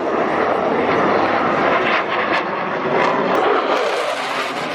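A fixed-wing airplane's engine noise as it flies past, swelling in at the start, loudest through the middle and easing off near the end.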